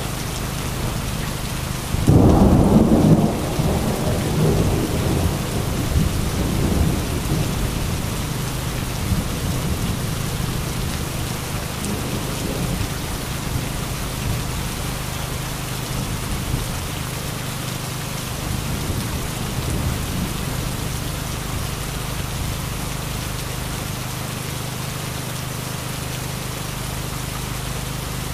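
Heavy rain falling steadily. About two seconds in a thunderclap breaks loud, then rolls on in rumbles for several seconds and fades back under the rain.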